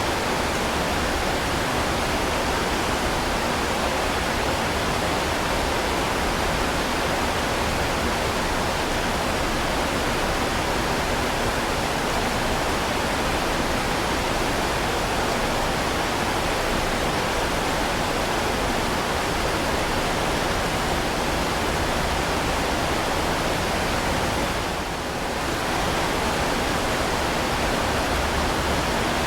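Heavy rain falling steadily, a dense even hiss with no separate drops standing out. The sound briefly dips in loudness about 25 seconds in.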